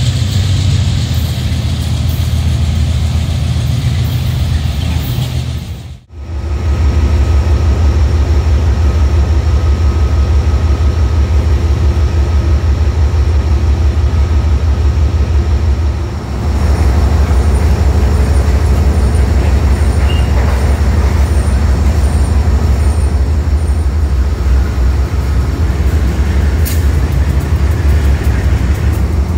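Diesel freight locomotive running under power while freight cars roll slowly past, a steady heavy low rumble. The sound drops away briefly about six seconds in.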